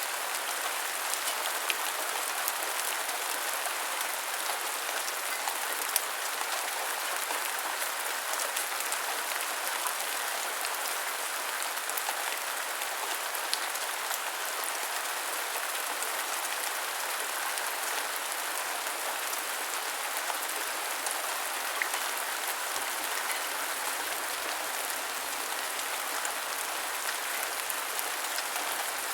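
Heavy rain falling steadily: a dense, even hiss with scattered sharper drop hits standing out now and then.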